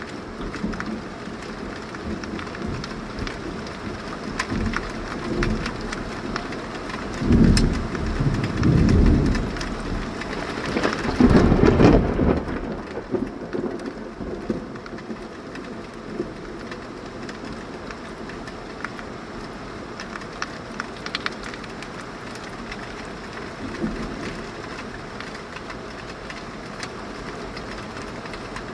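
Heavy rain from a tropical thunderstorm falling steadily, with thunder rumbling. Two loud peals come about a third of the way in, close together, and a fainter rumble follows near the end.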